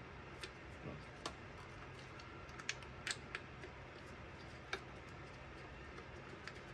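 Scattered light clicks and taps of a hose and its clamp being fitted by hand, over a faint steady hum.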